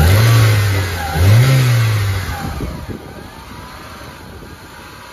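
2000 Honda Accord's inline-four engine revved twice, its pitch rising then falling back each time. About three seconds in it drops to a quieter, steady idle, settling normally now that the idle air control valve has been cleaned: no more high or surging idle.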